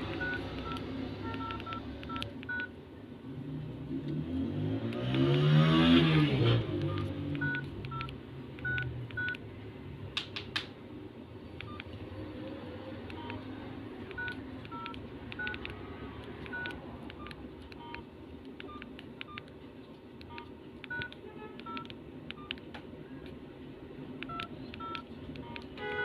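Nokia 1050 keypad tones: short beeps, one for each key pressed, in quick runs with pauses between, as a service code is keyed in. About five to six seconds in, a passing vehicle swells and fades and is the loudest sound.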